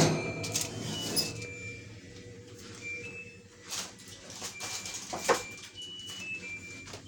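Washing machine's end-of-cycle tune: a string of short electronic beeps at a few different pitches, stepping downward near the end, signalling that the wash is finished. A few sharp knocks sound over it.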